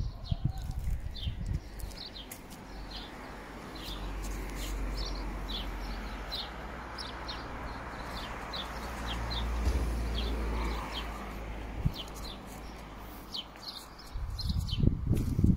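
Small birds chirping over and over, short high notes scattered throughout, above a low rumbling background that grows louder near the end.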